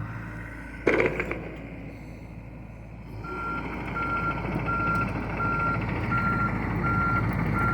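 John Deere excavator's diesel engine running, with one sharp, loud clank about a second in. From about three seconds in, its travel alarm beeps steadily, about one and a half beeps a second, as the engine grows louder.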